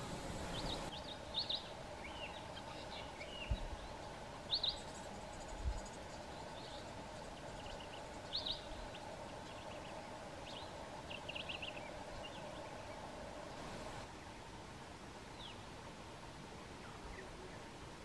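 Scattered short, high bird chirps, a few at a time, over a steady background hum, with two brief low thumps a few seconds in.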